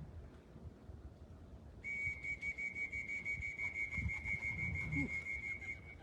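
A steady, high whistle-like tone starts about two seconds in and holds for about four seconds before cutting off, with a rapid flutter in its level. A low rumble sits underneath.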